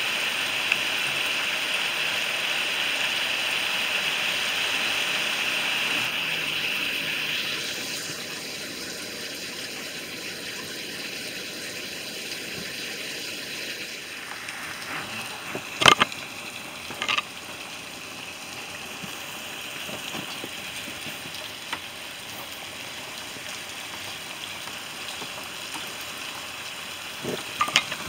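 Heavy rain pouring down, a steady dense hiss that eases somewhat about seven seconds in. A few sharp taps stand out near the middle and again near the end.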